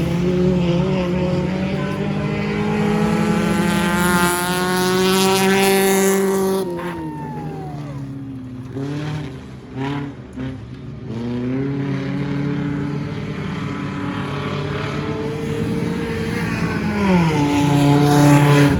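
Stock car engines running hard on the race track, rising in pitch as the cars accelerate, then dropping sharply as they lift off, about six seconds in and again near the end.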